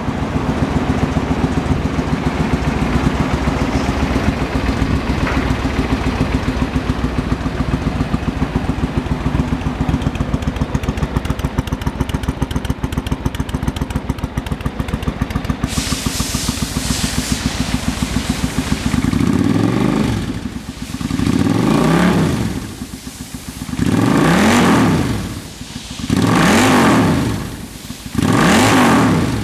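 Suzuki Intruder VS800's V-twin engine idling with a steady, fast beat, then blipped up in revs and falling back about five times, roughly every two seconds, over the last ten seconds.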